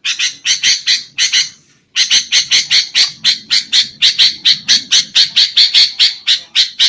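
Sooty-headed bulbul (kutilang) giving fast strings of harsh, chattering calls, about four a second, with one short break near the start. This is the agitated 'ribut' call used as a lure to draw in wild bulbuls.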